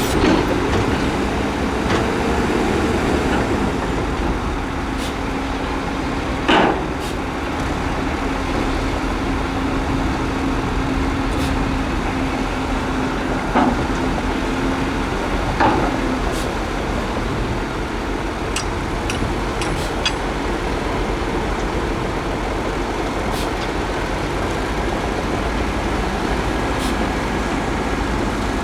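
Heavy earthmoving machinery running steadily, with a held hum that stops about halfway through. Three short, loud metallic knocks or clanks come spread through the first half.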